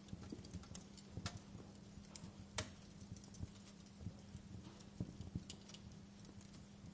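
Fire crackling softly: scattered, irregular pops and snaps, with one sharper pop about two and a half seconds in.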